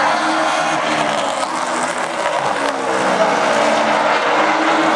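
Several Baby Grand race cars running together at speed, their engines overlapping at different pitches that rise and fall as the cars go around.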